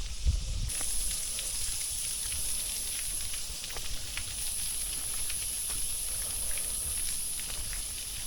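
Insects buzzing in a steady, high continuous drone, with faint scattered ticks and a light low rumble that fades about a second in.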